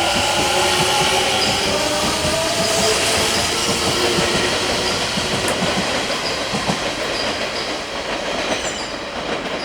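Kintetsu electric train running along the platform. A motor whine falls in pitch over the first few seconds, with wheels clacking over rail joints, and the sound slowly fades away.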